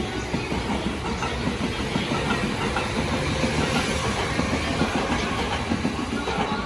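JR Musashino Line electric commuter train running past the platform, a steady noise of wheels on rails and running gear.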